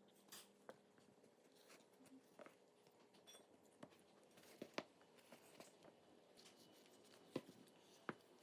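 Near silence broken by sparse small clicks and taps, with a few sharper ones about four and a half seconds in and again near the end.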